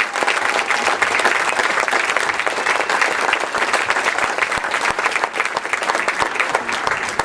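Large crowd applauding: dense, rapid clapping from many hands.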